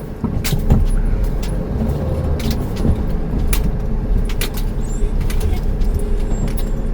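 Engine and road rumble heard inside the cab of a 2008 Pleasure-Way Ascent camper van moving slowly, with frequent short rattles and knocks from the van's interior.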